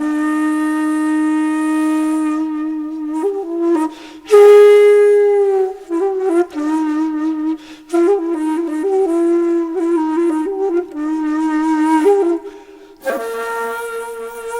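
Background music: a solo flute playing a slow melody, a long held note at first, then shorter notes with a wavering pitch.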